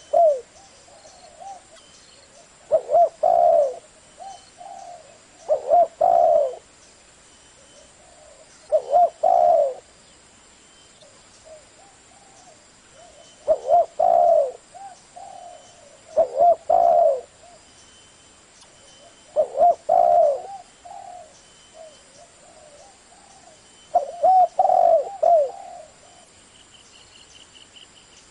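Spotted dove cooing in the deep 'thổ' voice, the call type used to set captive newly caught doves calling. Short phrases of several coos each come every three to five seconds.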